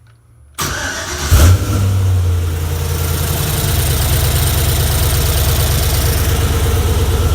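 First start-up of a freshly built GM 4.8-litre V8 with a Comp Cams camshaft: the engine cranks about half a second in, catches with a loud flare of revs, then settles into a steady idle.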